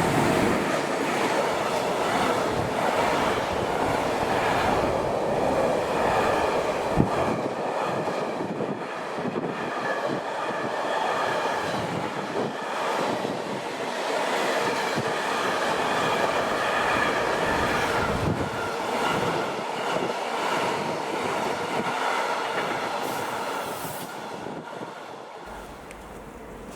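Train passing close by: wagons rolling with rhythmic knocks over the rail joints and a high, steady wheel squeal; the sound fades away near the end.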